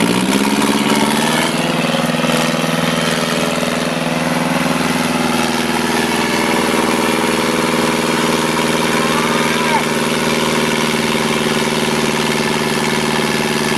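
IFA W50 truck's diesel engine rising in revs over the first second or so, then running at a steady speed.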